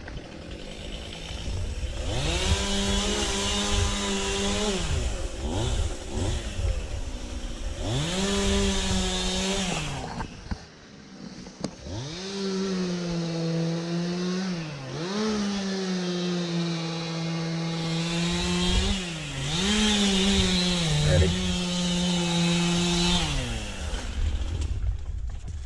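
Chainsaw revving to full speed and falling back between cuts. There is a short burst about two seconds in and another around eight seconds, then a long run from about twelve seconds that sags briefly in pitch a few times before dropping off near the end.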